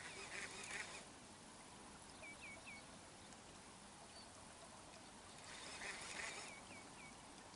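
Faint bird calls: groups of three short, high, hooked notes repeated every few seconds. Two brief stretches of rustling hiss come at the start and about two-thirds through.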